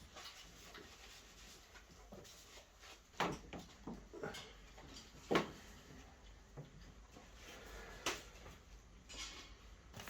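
Faint, scattered knocks and clicks of objects being handled, four or so short sharp ones, the loudest about five seconds in.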